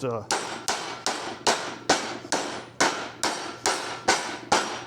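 Steady hammer blows, about two or three a second, on a sheet-steel patch panel worked over a steel rod used as a small anvil. Each sharp strike rings faintly. The hammering shapes the bend of a rust-repair patch for the car's inner rocker panel.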